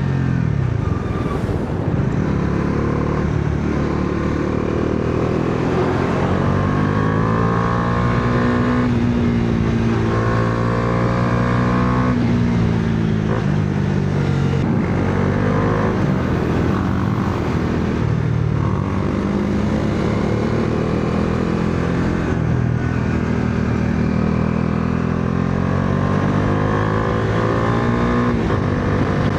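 Bajaj Dominar 400's single-cylinder engine under way, its pitch repeatedly rising as it accelerates and then dropping at gear changes or when the throttle is eased.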